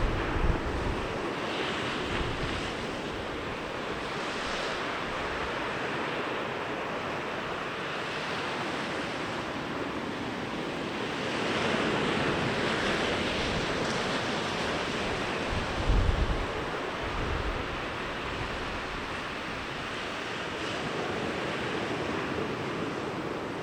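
Sea waves rolling in and breaking on a beach as a steady wash of surf, swelling louder about halfway through. Wind buffets the microphone briefly at the start and again about two-thirds of the way in.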